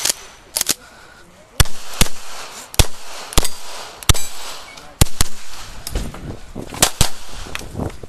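9mm CZ Shadow 2 pistol firing a string of about a dozen shots in an IPSC course of fire, some as quick double taps a fraction of a second apart, others with gaps of half a second to a second between them.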